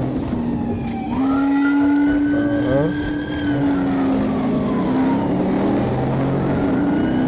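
Motor vehicle engine running under way. Its pitch rises about a second in, holds, then falls slowly over the following seconds.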